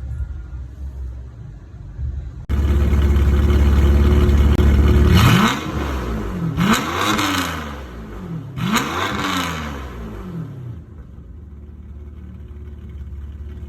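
BMW 850ci V12 idling through a custom exhaust with Ferrari 599 mufflers, then revved three times in quick succession, each rev rising and falling back, before settling to a steady idle. The sound gets abruptly louder a couple of seconds in.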